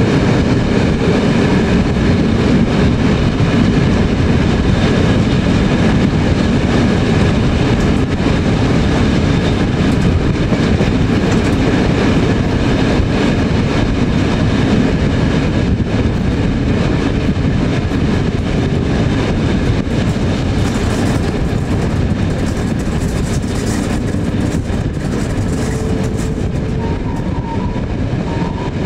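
A train running steadily along the track: continuous, even running noise of wheels on rails, with a few faint steady tones over it.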